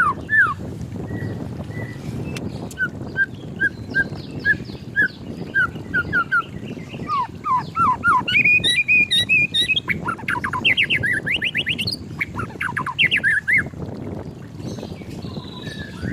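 White-rumped shama singing: a run of short whistled notes, then rapid down-slurred notes and fast sweeping trills, over a steady low background hiss.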